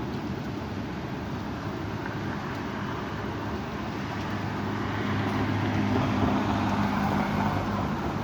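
Strong wind rushing steadily, with a motor vehicle's low engine hum swelling in from about halfway through.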